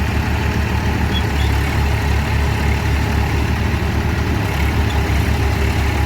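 Diesel tractor engine running steadily with a fast, even chugging.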